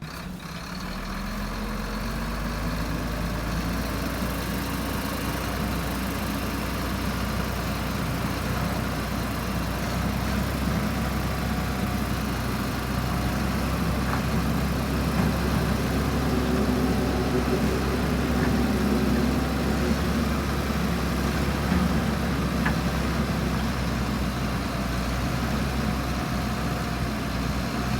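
Heavy diesel earthmoving machinery engine running steadily, growing louder over the first few seconds and then holding an even level.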